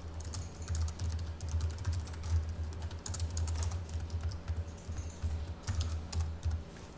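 Typing on a computer keyboard: a run of quick, uneven keystrokes as CSS media-query code is entered, over a steady low hum.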